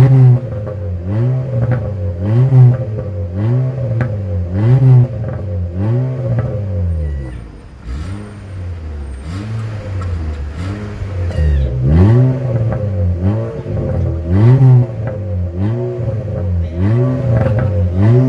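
Honda Brio engine revved repeatedly through an aftermarket valvetronic exhaust, each blip of the throttle rising and falling in about a second. The revving eases off for a few seconds around the middle, then picks up again.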